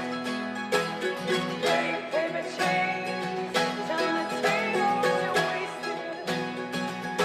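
Live acoustic music: plucked and strummed guitar chords with sharp, regular attacks, and a wavering melody line over them in the middle.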